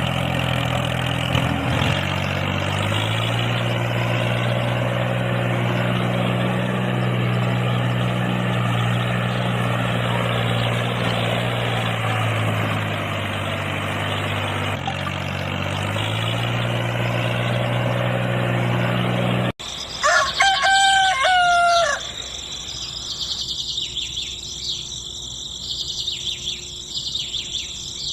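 A low engine drone runs steadily, its pitch rising a little early on and dropping later, then cuts off suddenly. A rooster crows once loudly, and faint high chirping of birds or insects follows.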